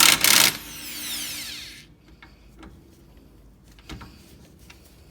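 Impact wrench hammering on a tight lower control arm bolt for about half a second, then a whine as its motor runs down. After that only a few faint clicks.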